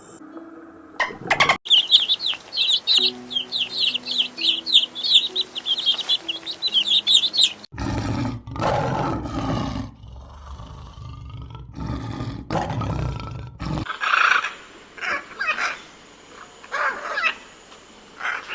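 A sequence of animal calls. A fast run of high chirps comes first. About eight seconds in there is a loud, low, rough sound lasting about six seconds, then several short calls near the end.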